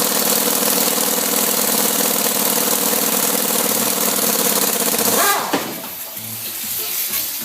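A power tool running loud and steady with a fast rattle, then released a little over five seconds in, winding down with a quick falling whine.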